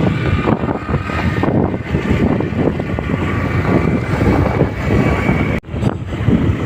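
A vehicle on the move, its engine and road noise mixed with wind buffeting the microphone; the sound drops out for an instant about five and a half seconds in.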